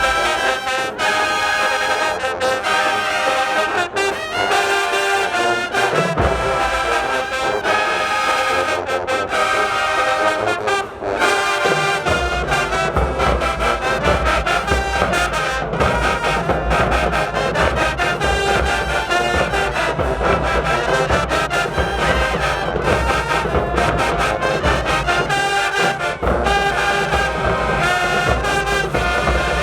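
High-school marching band playing: brass chords over a steady drum beat, with the low brass and bass drums coming in heavier about twelve seconds in.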